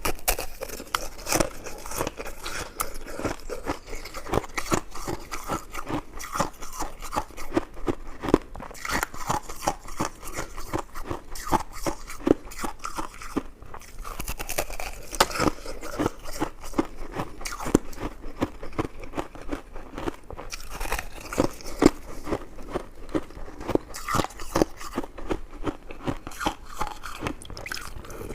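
Close-miked chewing and biting of chewy jelly buns and mochi: a dense, continuous run of small mouth clicks.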